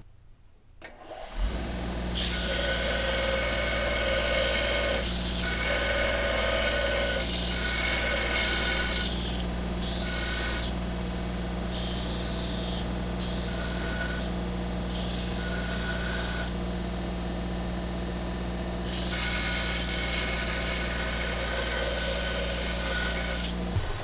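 Electric grinder running, its motor humming steadily, with repeated stretches of harsher grinding as it is pressed against metal. It starts about a second in and stops abruptly near the end.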